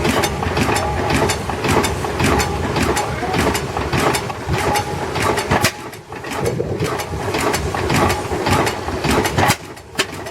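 Antique tractor engine running with a rough, uneven knock of firing strokes. The loudness dips briefly about six seconds in and again near the end.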